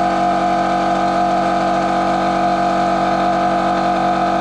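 Quattro Elementi KM 24-260 2.5 hp air compressor running at a steady pitch, its motor and pump filling the tank toward the 8-bar cut-out.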